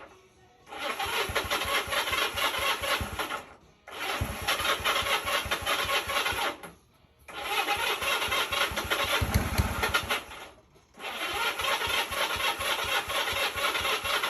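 1978 Honda Twinstar motorcycle engine being cranked by its starter in four attempts of about three seconds each, with short pauses between them. The engine turns over but does not catch.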